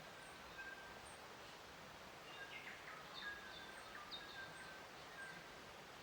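Faint nature ambience: short, high bird chirps scattered over a soft, steady hiss.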